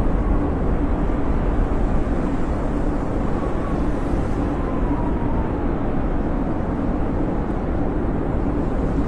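Blizzard wind blowing steadily with a low rumble, and a faint whistle that slides in pitch around the middle.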